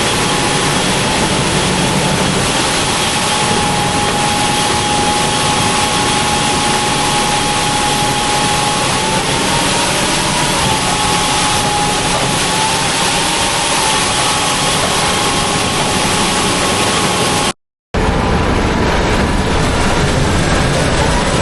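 Combine harvester running steadily while harvesting: dense machine noise with a whine that dips and rises a little in pitch now and then. About three-quarters of the way through, the sound drops out for a moment and then resumes.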